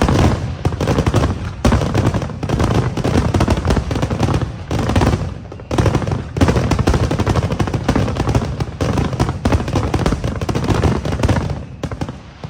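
Fireworks going off in a dense, rapid barrage of overlapping bangs and crackles, loud throughout, that dies away just before the end.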